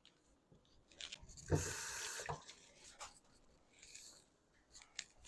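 Cooking prep noises: a few light clicks and taps of utensils and food handling, with a short rushing burst lasting under a second about a second and a half in.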